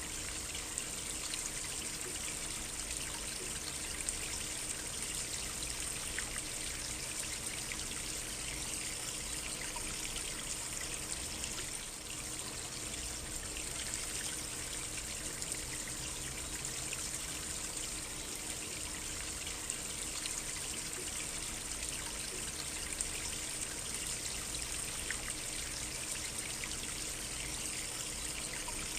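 A stream trickling steadily: an even rush of running water with small splashes scattered through it.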